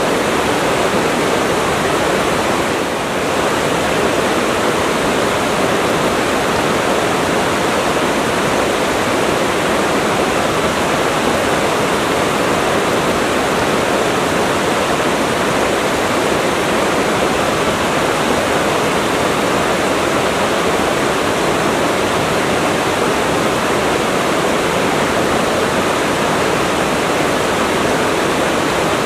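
Waterfall rushing, a loud steady wash of falling water with no pauses.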